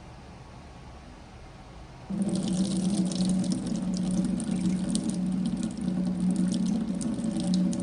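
A coffee machine's pump switches on about two seconds in and runs with a steady hum while liquid spurts and splutters into the cup.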